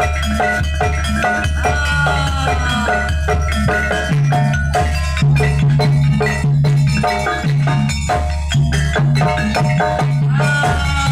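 Jaranan gamelan music played live: struck metallophones ring out quick repeating patterns over drums and deep, steady low notes. A gliding, falling melody line comes in about two seconds in and again near the end.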